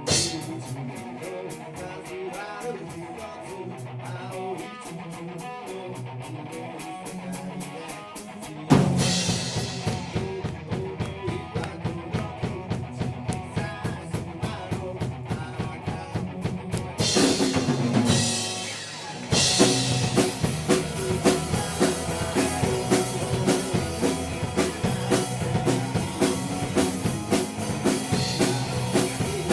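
Live rock band with electric guitar, bass and drum kit starting a song: a lighter guitar intro over a steady ticking beat, then the full band with drums comes in about nine seconds in. There is a short break with a ringing cymbal wash about halfway through, then the band is back in at full volume.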